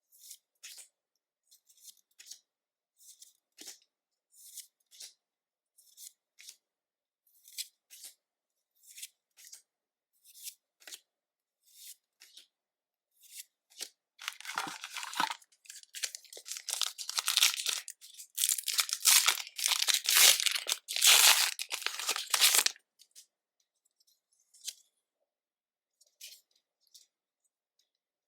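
Pokémon trading cards being handled one at a time, giving a string of short, soft card flicks, then about half-way through the foil wrapper of a booster pack being torn and crinkled loudly for several seconds, then a few more card flicks.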